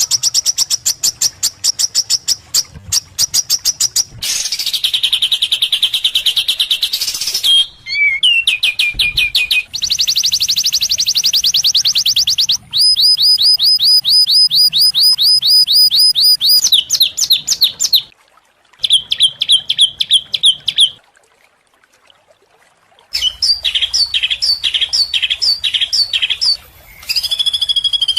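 Songbird calls edited together: high, rapidly repeated chirps and trills in short blocks, each switching suddenly to a different call pattern every few seconds, with a break of about two seconds before the calls resume.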